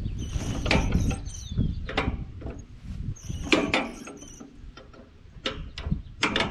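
Hand crank clanking and clicking in the front of a Minneapolis Moline tractor as it is engaged and pulled up to turn the engine over by hand, a handful of irregular metallic knocks.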